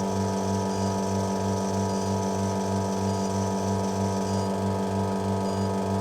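Commercial espresso machine's pump running steadily while a double shot extracts, a constant hum with a low pulse about three times a second.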